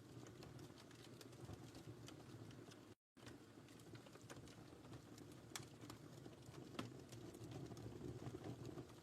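Wood fire burning in a fireplace, crackling softly with scattered sharp pops over a low steady hiss, the sound cutting out completely for a moment about three seconds in.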